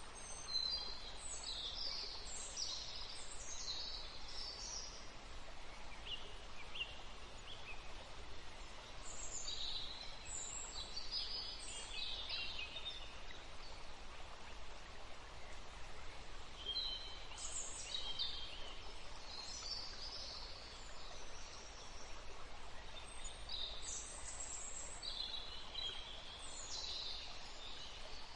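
Small birds chirping in several short bouts of quick, high-pitched calls over a steady background hiss.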